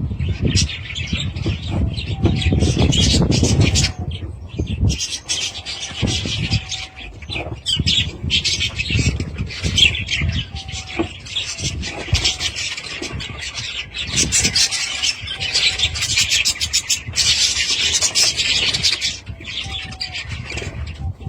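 Flock of budgerigars chattering and chirping in a dense, continuous stream of rapid calls, with a low rumble underneath for the first few seconds.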